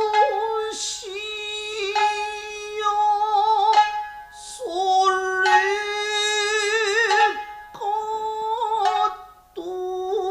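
Nagauta singing: a voice holding long, drawn-out notes, each held steady and then bending and wavering at the end of the phrase, with short breaks for breath between phrases.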